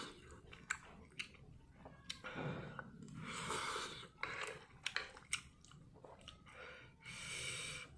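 Close-miked chewing of spicy Buldak stir-fried instant noodles, with scattered small clicks of chopsticks against the plate and two longer airy sounds, one around the middle and one near the end.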